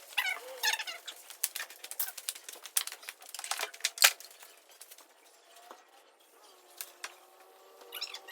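A run of sharp clicks and knocks, thickest in the first four seconds with the loudest knock about four seconds in, then sparser, with a few chirps near the start and a faint steady hum in the quieter second half.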